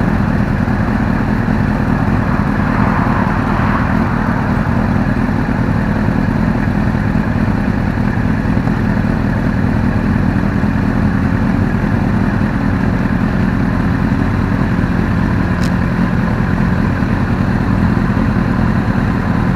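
Motorcycle engine running steadily, with no rise or fall in pitch.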